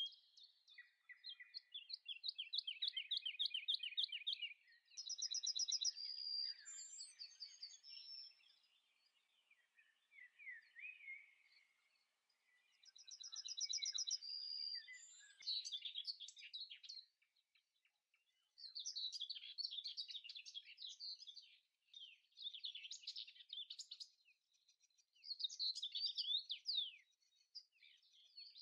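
Small birds chirping and trilling in short repeated phrases, with brief pauses between the spells of song.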